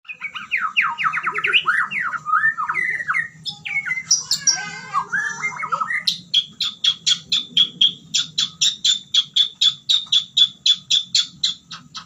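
White-rumped shama singing, pouring out its learned repertoire: a fast, varied run of whistled and slurred phrases, then, about halfway through, a rapid string of short repeated notes at about four a second.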